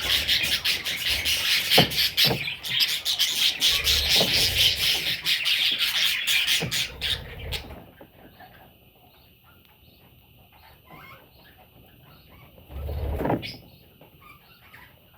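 Budgerigars chirping and chattering rapidly and loudly, breaking off abruptly after about seven seconds. After that only faint, scattered chirps remain, with one short, louder sound about thirteen seconds in.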